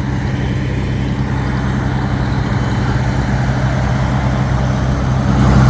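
A vehicle engine idling close by with a steady low hum over a haze of traffic noise, getting a little louder near the end.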